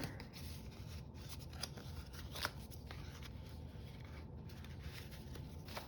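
Faint rustling of paper and card being handled and fitted into a handmade junk journal, with a few light clicks and taps.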